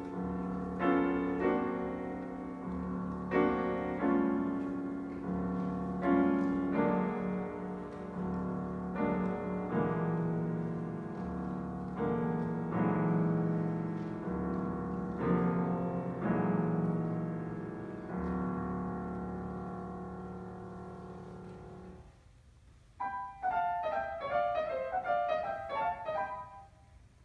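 Solo piano playing struck chords over a held low bass note, about one every second and a half, slowly fading. After a brief pause, a quick flurry of high notes is played near the end.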